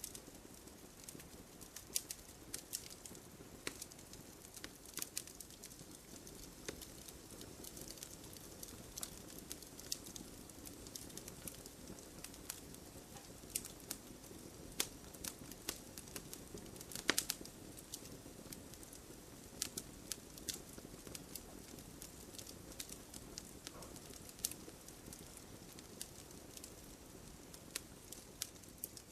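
Wood campfire crackling: irregular sharp pops and snaps over a soft steady hiss of burning, with a louder cluster of pops a little past halfway.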